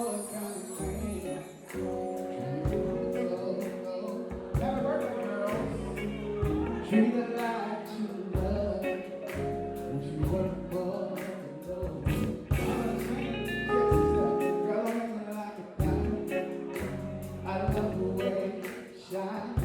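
Live soul band music: a steady drum beat under bass and sustained keyboard chords, with some singing.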